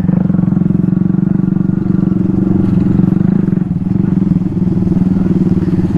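Small vehicle engine running at a steady speed while being ridden, heard close up from the rider's position.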